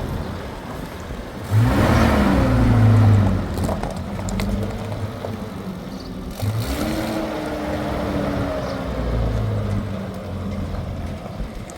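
Motor vehicle engine running, its pitch rising and falling as it revs, loudest about two seconds in, with a second rise around six or seven seconds in.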